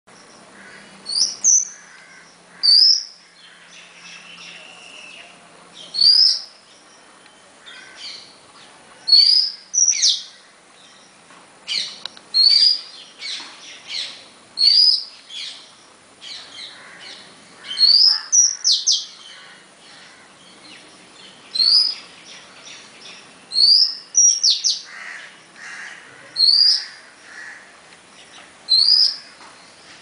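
A songbird repeats a short, high, upward-sweeping call about every two seconds, sometimes twice in quick succession. Soft splashes come from a bird bathing in a shallow water dish.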